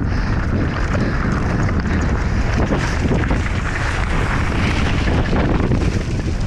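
Heavy wind buffeting on an on-board camera's microphone during a fast mountain-bike descent, a steady loud rush with small knocks and rattles from the bike running over rough ground.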